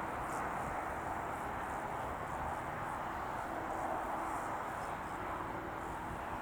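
Steady outdoor ambience: an even rushing noise, a faint steady hum that comes in about halfway, and faint short high chirps.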